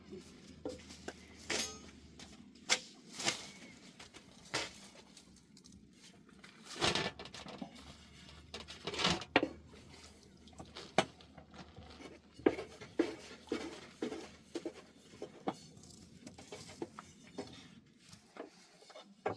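Irregular taps, knocks and clatters of hand work with cookware and utensils during bread-making, a few louder clusters in the middle.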